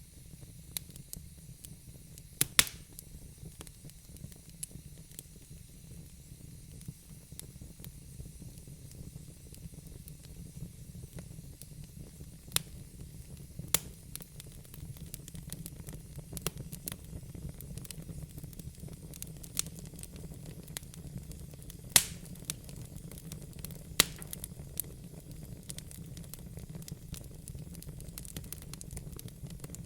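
Wood fire burning in a fireplace: a steady low rumble and hiss of the flames, with frequent sharp crackles and pops from the burning logs, the loudest at about 2.5, 12.5, 22 and 24 seconds in.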